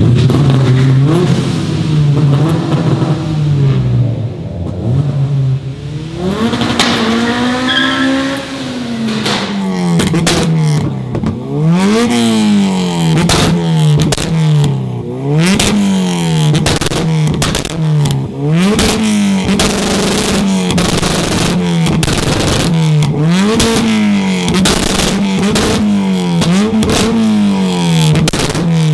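Honda Civic Type R four-cylinder engine revved hard again and again while standing, each rev rising quickly in pitch and dropping back, about once every two seconds, with sharp crackles in between. Before that, an engine note changes pitch in steps, then makes one long rev that rises and falls at about seven seconds.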